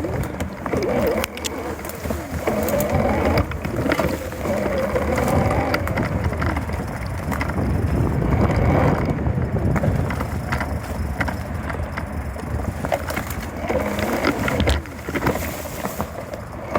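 Fat-tire bike being walked through mud and muck: tires rolling and crunching, with scattered clicks and knocks over a constant low rumble.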